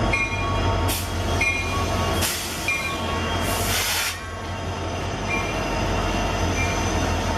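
A train running with a steady low rumble, short high squeals recurring about every second or so, and three bursts of hiss in the first half.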